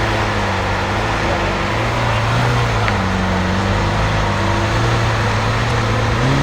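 BMW M5 F90's twin-turbo V8 with an aftermarket SuperSprint exhaust idling, its low drone holding steady and lifting slightly in pitch twice.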